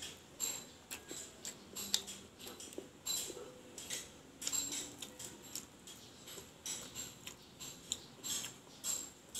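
Close-up chewing and mouth sounds of someone eating, with irregular wet smacks and small crunches several times a second.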